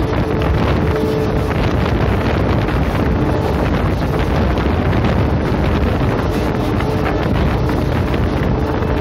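Wind buffeting the microphone at the open door of a moving passenger train, mixed with the steady rumble of its coaches running along the track.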